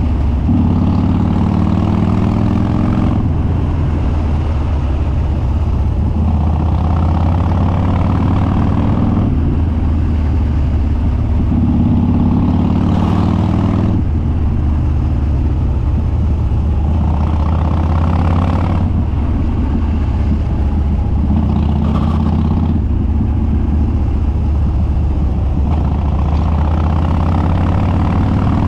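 Harley-Davidson Dyna Street Bob's Twin Cam V-twin, with Stage 2 cams and an open, unbaffled dual exhaust, running under load on the road. Its pitch rises about seven times as it accelerates and eases back between.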